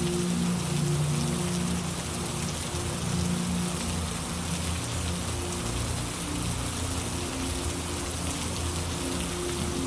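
Steady rain falling, an even hiss of drops, with a low steady hum of tones underneath.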